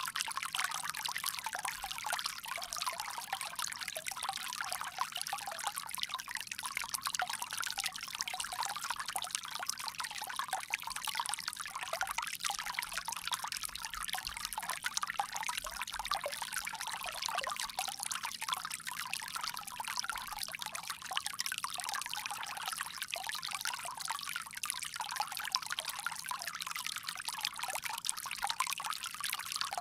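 Water pouring and trickling steadily from a bamboo spout.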